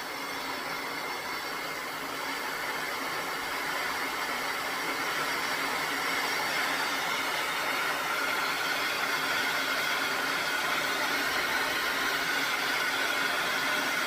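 MelodySusie hair dryer with a high-speed brushless motor running, a steady rush of air with a whine over it. The stepless speed roller is being turned up: the sound grows louder over the first several seconds, then holds steady at the higher speed.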